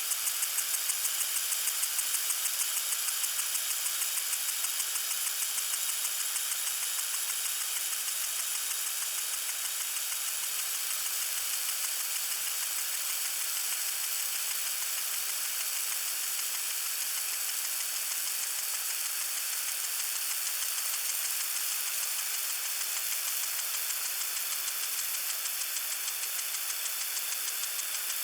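Water sprinkler spraying: a steady high hiss of spray with a fast, even ticking pulse running through it, the pulse strongest in the first few seconds.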